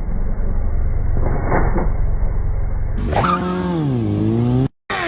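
Vehicle engine sounds: a steady low engine drone, then about three seconds in an engine's pitch falls and climbs again as it revs, cut off abruptly for a moment near the end.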